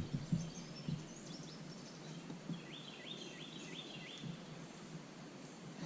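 Outdoor ambience with a bird calling: a quick run of about five short chirps near the middle, and fainter high chirps in the first second or so.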